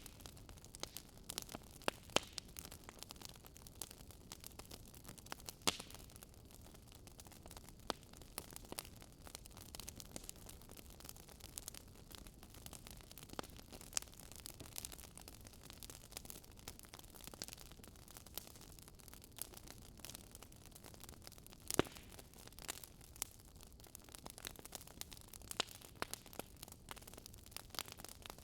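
Wood fire crackling: a low steady hiss with irregular sharp pops and snaps, a few of them louder.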